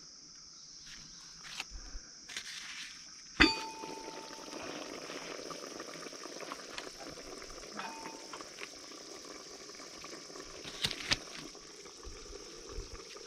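A single metal clank with a brief ring about three and a half seconds in, then a pot of pork curry bubbling and simmering steadily over the fire.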